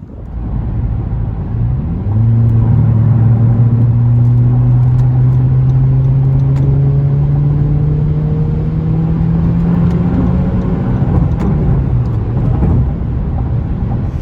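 Exhaust of a 2020 Honda Civic LX with the muffler deleted and the resonator kept, its four-cylinder engine note. It comes up loudly about two seconds in, climbs slowly and steadily in pitch for about nine seconds, then eases off near the end.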